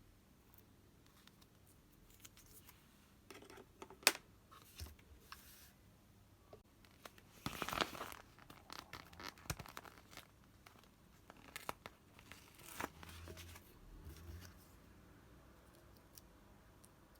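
Close-up handling of craft materials: short tearing and crinkling sounds with scattered light clicks. A sharp click comes about four seconds in, and a longer tear about eight seconds in.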